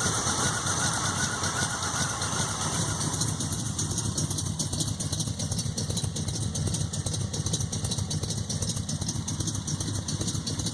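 1980 Chevrolet Corvette V8 engine running steadily at idle, a low, evenly pulsing exhaust rumble. A faint wavering higher whine fades out in the first few seconds.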